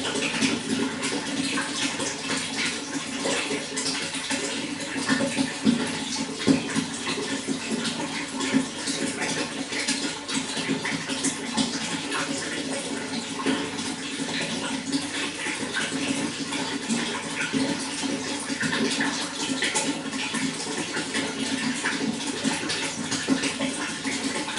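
Running water flowing steadily, a continuous splashing and gurgling with many small droplet ticks and no pauses.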